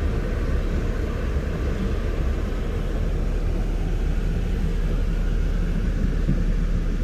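Nissan Titan pickup running, heard from inside the cab as a steady low rumble.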